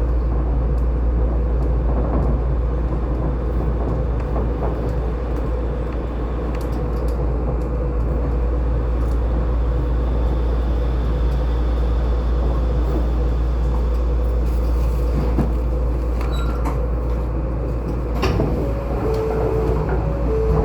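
Steady running noise inside a Shonan Monorail car: a constant deep rumble with a steady hum, and a few short tones near the end.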